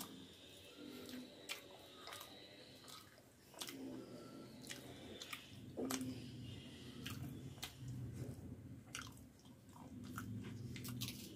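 Close-up chewing of puri with fried potato: wet mouth noises with many sharp clicks and lip smacks throughout.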